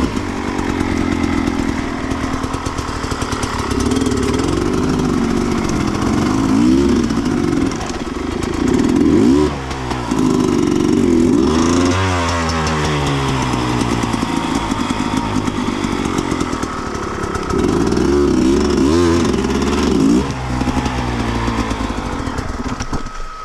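Sherco 300 two-stroke enduro motorcycle engine being ridden on a dirt trail, revving up and falling back again and again as the throttle opens and closes. The engine sound drops away near the end.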